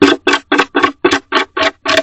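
Barn owl scratching rapidly at the wooden wall of her nest box, a fast scraping rhythm of about four strokes a second, loud and close to the microphone.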